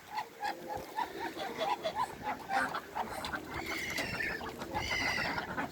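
A flock of poultry calling: a fast run of short, repeated low calls, several a second, joined about four seconds in by higher, drawn-out calls.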